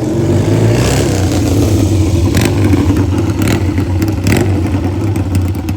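Classic Rickman motorcycle engine running steadily close by, with a few sharp clacks about two and a half, three and a half and four and a half seconds in.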